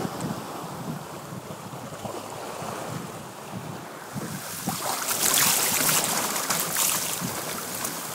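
Wind buffeting the phone's microphone over water rushing along a Sunfish sailboat's hull as it sails in strong wind. About halfway through, the rush swells into a louder hiss for a few seconds.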